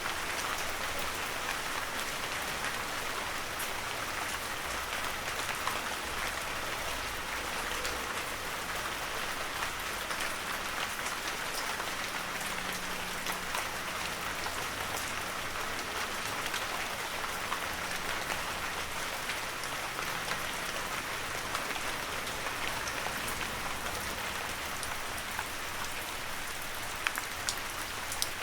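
Heavy rain falling steadily: a dense, even hiss of drops with scattered sharper drop ticks.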